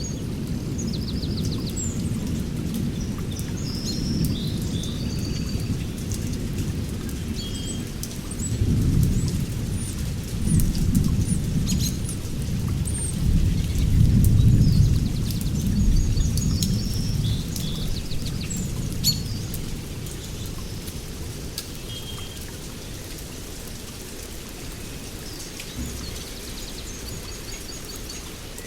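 Rainstorm: steady rain with drops ticking, under a low rumble of rolling thunder that swells in waves through the middle, is loudest about halfway through, and fades toward the end. Birds chirp and trill over it at the start, in the middle and again near the end.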